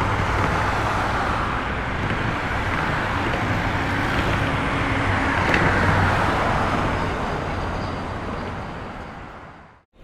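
Road traffic noise: a steady rush of passing cars, swelling as a vehicle goes by about six seconds in, then fading out to silence near the end.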